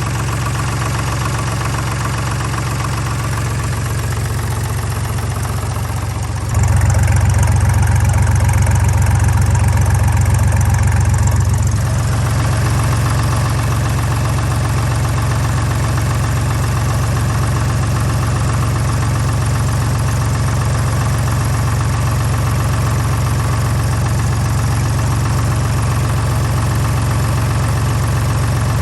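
Deutz D5206 tractor's air-cooled three-cylinder diesel engine running at a steady idle with a deep, knocking diesel note. About six and a half seconds in it abruptly gets louder and fuller for about five seconds, then drops back to a steady run.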